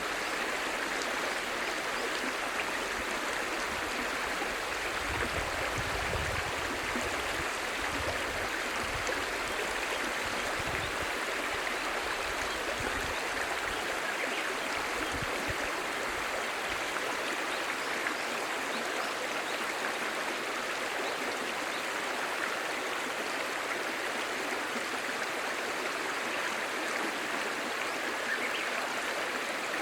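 Clear stream babbling steadily, an even rush of flowing water with no breaks. A low rumble sits under it for the first half, then dies away.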